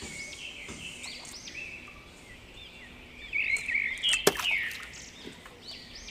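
Small birds chirping outdoors: many quick, high, arching calls repeated over faint background noise, with one sharp click about four seconds in.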